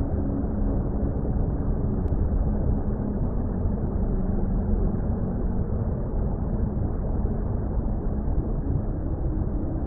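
Steady, muffled low rumble of water, an underwater-style ambience with a faint drone underneath.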